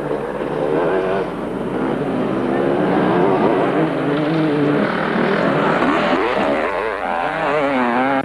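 Several motocross bikes with two-stroke engines racing, their engines revving up and down, so that overlapping pitches rise and fall.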